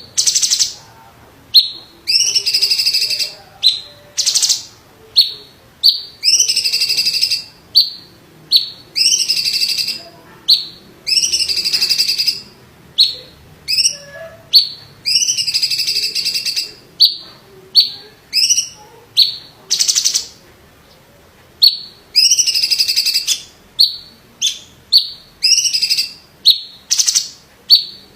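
A cucak ijo (green leafbird) singing loudly. It gives short, sharp high notes and buzzy trilled phrases about a second long, one after another with brief gaps, and pauses for a couple of seconds near the two-thirds mark.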